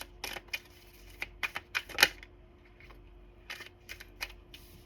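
Tarot cards being handled on a table: a run of irregular sharp clicks and snaps, the loudest about two seconds in.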